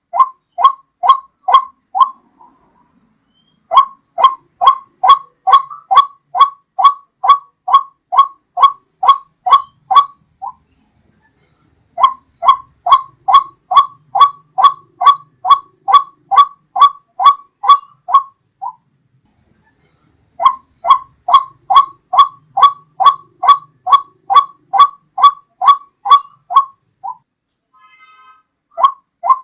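White-breasted waterhen (ruak-ruak) call used as a hunting lure: a loud, clear series of short, falling notes, about three a second. The notes come in bouts of several seconds broken by short pauses.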